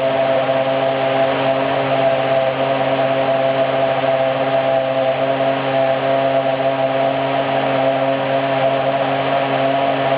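Toyota Formula One racing engine running at a steady idle, a loud, even drone that holds one pitch without revving.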